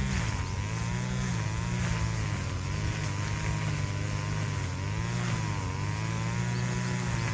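Brush cutter engine running at high revs, its pitch dipping and recovering several times as the blade takes load in the grass.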